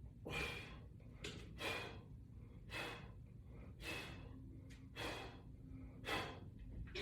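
A person breathing hard in a steady rhythm, about six forceful breaths roughly one a second, in time with exercise repetitions.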